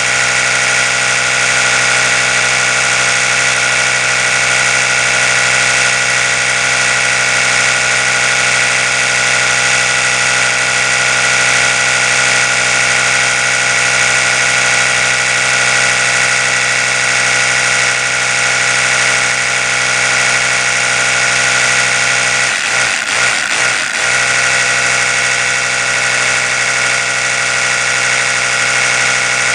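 Oral-B electric toothbrush running continuously, its spinning brush head giving a steady, high-pitched buzzing hum. About three quarters of the way through, the hum briefly wavers and dips, then settles back.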